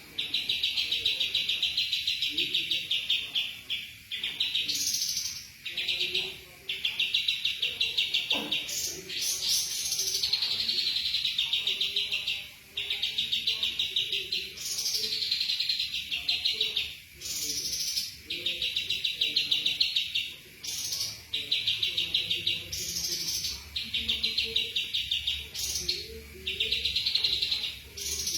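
Songbird singing repeated phrases. Each opens with a high falling sweep and runs into a long, fast trill, with brief pauses between phrases, about ten in all.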